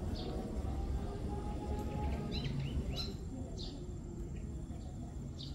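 Small birds chirping: short high chirps scattered through, with a quick run of several about two and a half seconds in, over a steady low background rumble.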